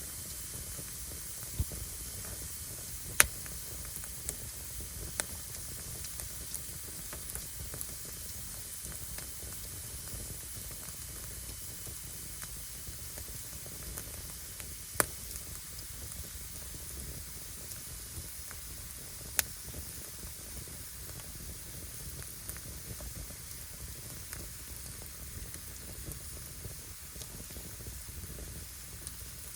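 Wood fire burning, with a steady hiss and sizzle and a handful of sharp crackling pops from the firewood, the loudest about three seconds in.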